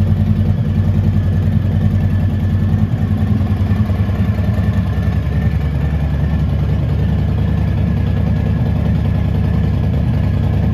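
Harley-Davidson Breakout 114's Milwaukee-Eight 114 V-twin engine idling with a low, uneven pulse that grows smoother about four seconds in.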